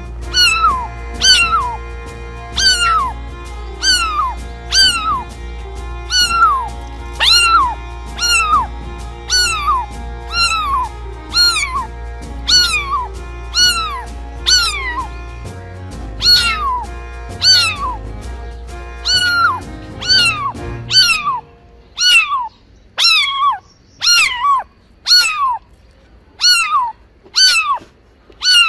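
A cat meowing over and over, one short meow falling in pitch roughly every second, over background music that stops about three quarters of the way through.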